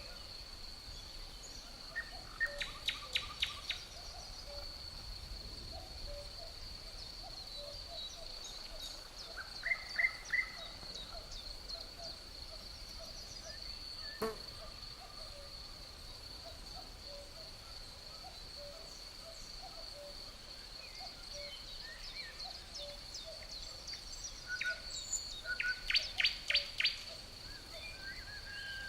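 Birds calling, three times in a quick run of repeated notes, over a steady high insect drone. A single sharp click sounds about halfway through.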